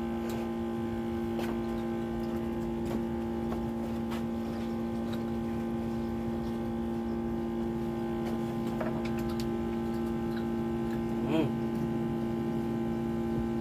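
A steady two-tone hum with a few faint clicks, one a little louder about eleven seconds in.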